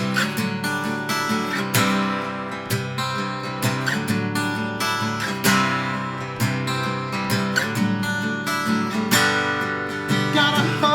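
Acoustic guitar strummed with steady chords, an instrumental passage between sung lines.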